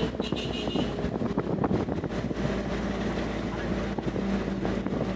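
Vehicle engine running on the move, with wind buffeting the microphone. A steady engine hum comes up about two seconds in, and a high tone stops about a second in.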